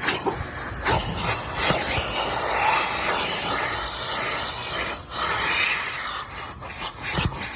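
Car wash vacuum sucking through its hose and nozzle tool over a car's interior: a steady rushing hiss whose tone shifts as the nozzle moves, with small clicks and knocks of the tool against surfaces. The hiss briefly drops about five seconds in.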